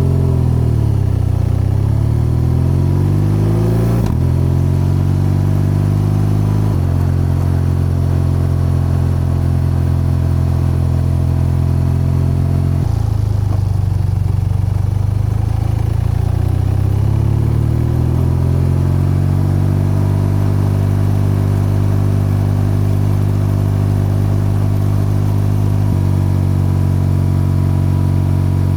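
BMW R12 boxer-twin engine and exhaust under way. The revs dip and climb in the first few seconds, then hold steady with abrupt steps in pitch, and slow and pick up again about midway.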